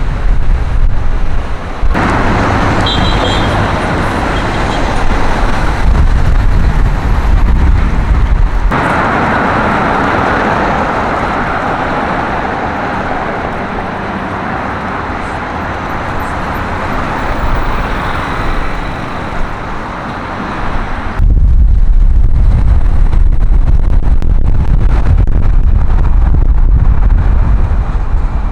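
Street traffic noise with vehicles passing, loud and even, changing abruptly a few times. A strong low rumble dominates the last several seconds.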